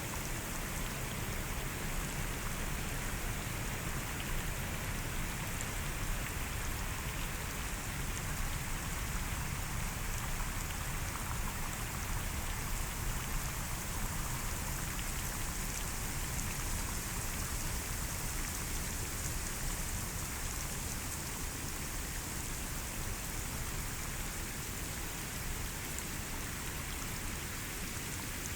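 Steady rain falling on forest foliage, an even hiss with fine drop patter.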